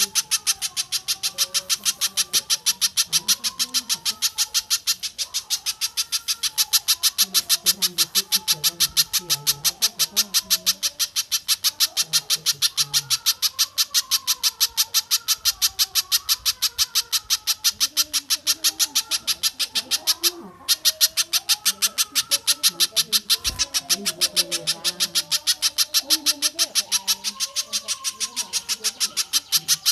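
Recorded bird calls from a spiderhunter and stork-billed kingfisher training track: a rapid, steady stream of sharp high chips, several a second, with lower wavering notes under it. The stream breaks off briefly about twenty seconds in, then carries on.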